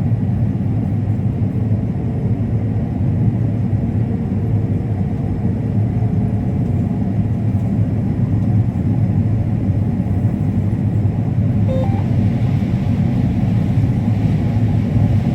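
Combine harvester running steadily while harvesting corn across the rows, a continuous low drone.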